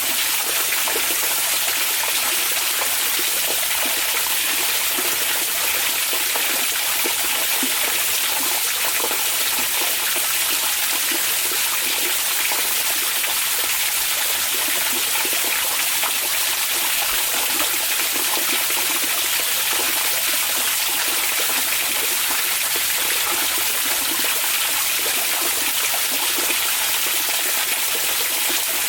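Hot spring water flowing and splashing into a bath in a steady, unbroken stream, with a fine constant gurgle.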